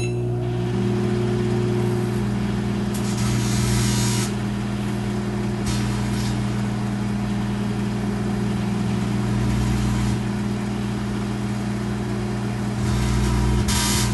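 Microwave oven running with a steady low hum while a grape inside sparks, giving short bursts of hissing crackle: one lasting about a second starting three seconds in, a shorter one about six seconds in, and another near the end.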